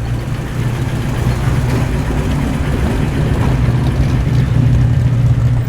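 A performance car's engine rumbling at low speed as the car rolls past, growing slightly louder toward the end.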